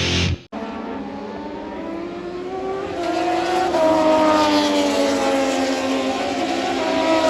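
Racing motorcycle engines at high revs on track. The engine note climbs as the bikes accelerate, dips briefly about four seconds in, and climbs again.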